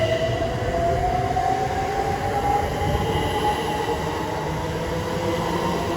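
Class 387 electric multiple unit accelerating away from the platform, its traction motors giving a whine that rises slowly in pitch over the rumble of the train.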